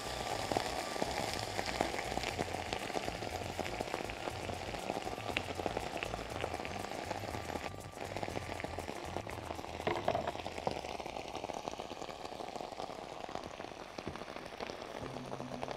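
Food sizzling and crackling in hot oil in a frying pan, a steady dense crackle that eases slightly partway through.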